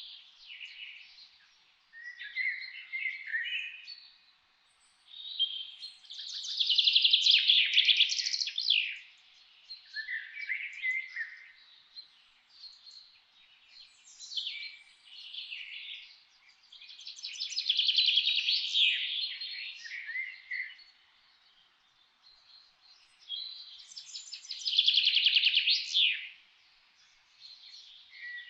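Songbird singing in the forest: bright trilled song phrases a few seconds long, repeated several times with gaps between, and softer chirps and short calls in between.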